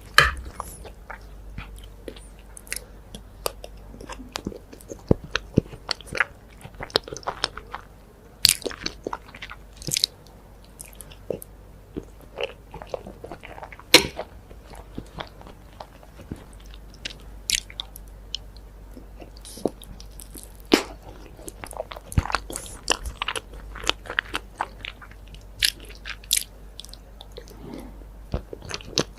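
Close-miked eating: bites and chewing with irregular crunchy, sticky mouth clicks and smacks, a few of them much louder than the rest.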